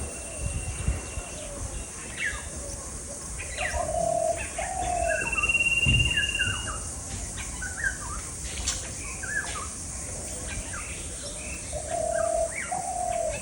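Several birds calling together: scattered short chirps, repeated low calls, and a long, steady whistle heard twice.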